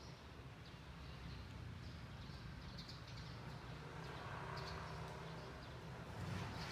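Small birds giving short, scattered chirps over a steady low background rumble. A brief louder rush of noise comes near the end.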